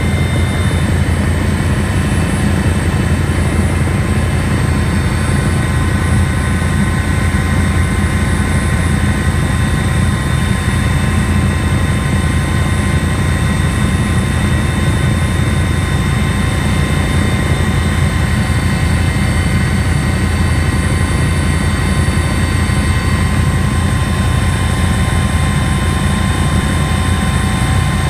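Helicopter running steadily: a loud, constant low rotor noise with several steady high-pitched whining tones over it.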